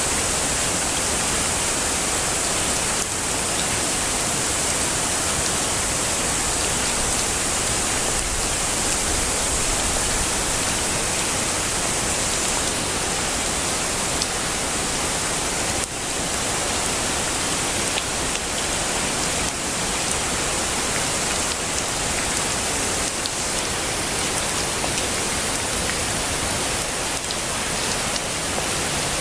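Heavy rain falling steadily, a dense even hiss with faint scattered drop ticks. A brighter high hiss on top eases off about twelve seconds in.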